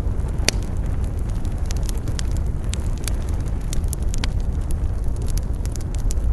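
Wood campfire crackling, with irregular sharp pops and snaps over a steady low rumble of wind; the loudest pop comes about half a second in.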